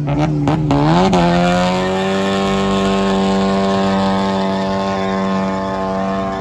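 Car engine revved in quick blips with sharp pops, then climbing about a second in and held at steady high revs.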